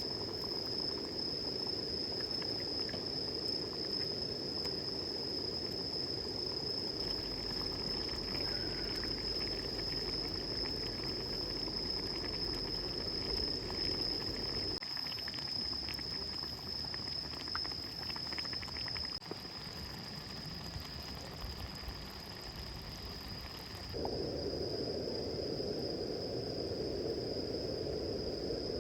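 Insects chirring in one steady high-pitched tone over the murmur of a shallow river. The water sound drops away about halfway through and comes back fuller near the end.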